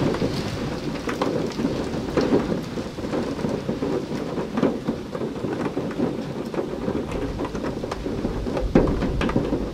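Light, steady rain, with many sharp hits of single drops landing close by. A low rumble grows in the last few seconds.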